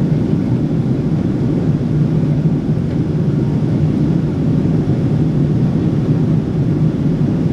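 Steady low rumble of a Boeing 777-300 airliner heard from inside the passenger cabin: engine and airflow noise, even and unchanging.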